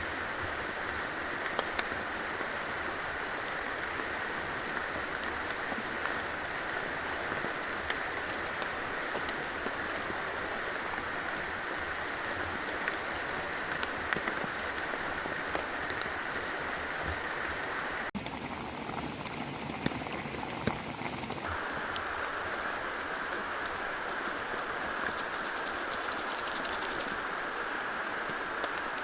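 Steady wash of rain and flowing river water, with scattered raindrops ticking. About eighteen seconds in the sound changes abruptly and the mid-range drops away for about three seconds before the wash returns.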